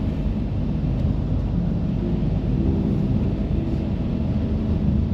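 A large vehicle's engine running steadily, a continuous low rumble.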